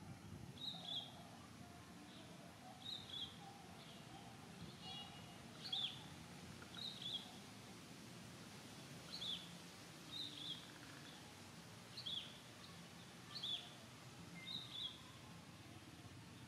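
A bird repeating a short, high double chirp that falls in pitch, about nine times at uneven gaps of one to three seconds, over faint low background noise.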